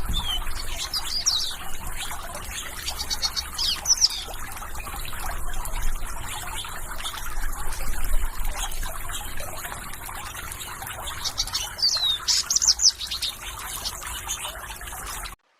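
Small birds chirping in short, quick runs of high notes, some falling in pitch, repeated throughout over a steady hiss of background noise.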